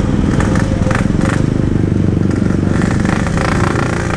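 Yamaha RX-King's two-stroke single-cylinder engine running steadily, with a fine rapid pulsing. The engine is running poorly and close to dying, which the rider puts down to a carburettor that needs setting after a flooded spark plug.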